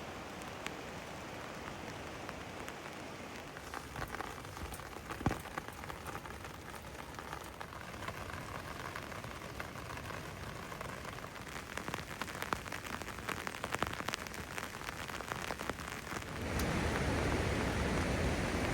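Rain falling steadily, with many small drops ticking on hard surfaces. About sixteen seconds in, it changes abruptly to a louder, even rush of water.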